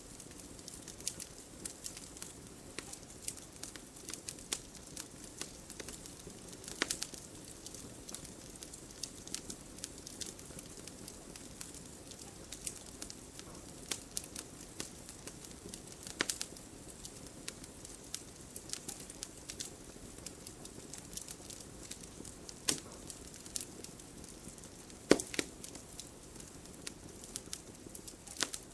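Wood campfire crackling: a constant scatter of small snaps and a few louder pops over a soft, steady rush of burning.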